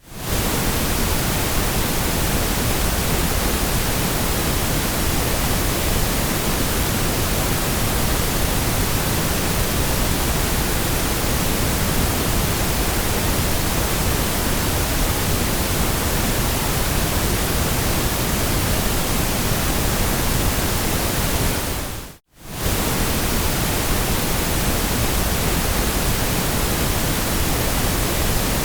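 Steady white noise, an even hiss across all pitches. About three quarters of the way through it fades out for a fraction of a second and comes straight back, like the seam of a loop.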